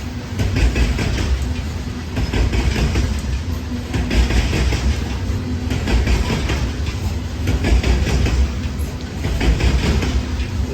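Norfolk Southern freight train cars rolling past with a steady low rumble, their wheels clicking over rail joints in repeating clusters.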